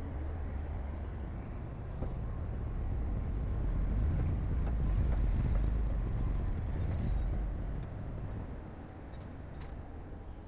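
Heavy diesel earthmoving machinery running with a low rumble. It grows louder through the middle and eases off near the end, with a couple of faint clicks.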